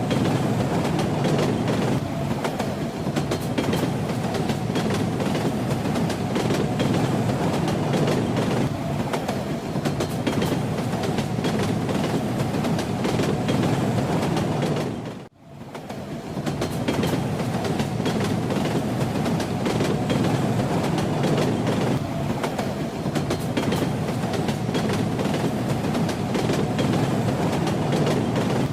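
Train carriage riding along, a steady rumble with wheels clacking over the rail joints. About halfway through, the sound fades out for a moment and comes straight back.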